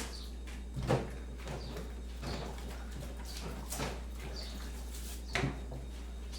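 Kitchen crockery and utensils clinking and knocking in four short clusters, over a steady low hum.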